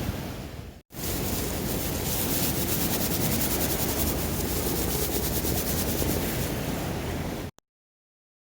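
Steady rush of sea surf mixed with wind buffeting the microphone, with no distinct events. It drops out to dead silence for about the last second.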